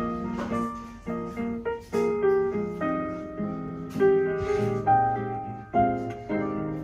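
Background piano music, with new chords struck about every second.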